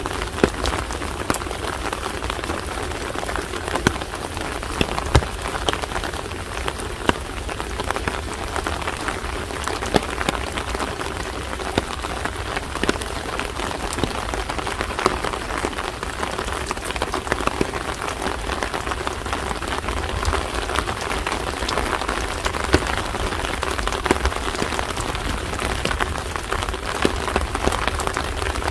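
Steady rain falling, with many separate drops ticking sharply close by over the constant patter, plus a steady low rumble underneath.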